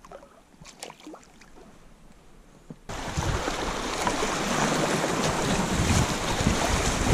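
Quiet for about three seconds with a few faint small sounds, then a sudden, steady rushing of wind buffeting the microphone.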